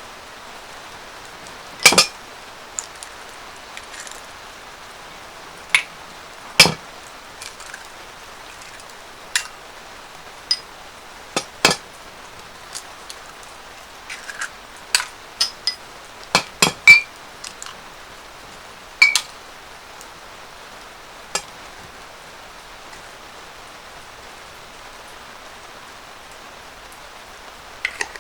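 Steady rain pattering on the yurt's canvas roof. Over it come about twenty irregular, sharp clinks of cooking utensils against dishes.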